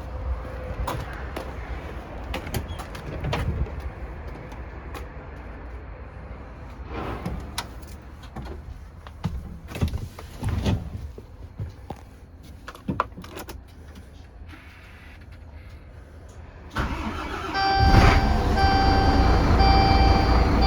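Scattered clicks and knocks over a low rumble, then near the end a dump truck's diesel engine starts and runs loudly with a repeating beep over it.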